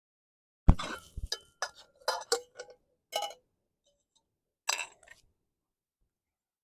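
Metal camp cookware being handled: a quick run of clinks and knocks, some ringing briefly, then one more knock about five seconds in.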